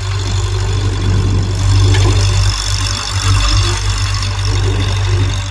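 Heavy vehicle engine running steadily with a deep, loud drone.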